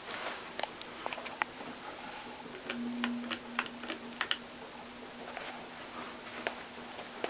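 FASCO Charleston ceiling fan motor humming steadily, the hum briefly louder about three seconds in, with a scatter of sharp clicks and ticks in the first half.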